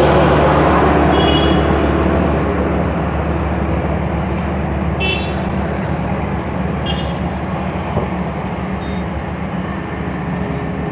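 Heavy diesel machinery running steadily at a road-paving site, slowly growing quieter, with a few brief high-pitched chirps.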